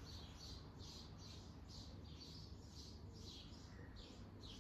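Faint bird chirping: short high notes repeated two or three times a second, over a steady low background hum.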